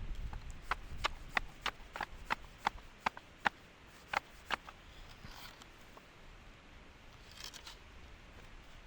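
A run of sharp clicks or knocks, about three a second, stopping after about four and a half seconds, followed by brief rustling.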